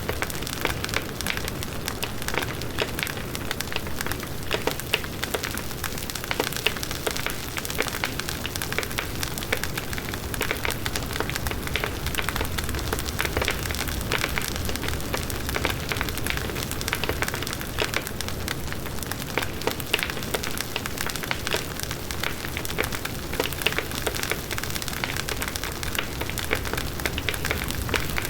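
Large wood bonfire burning steadily: dense, continuous crackling and popping of the burning wood over the low rush of the flames.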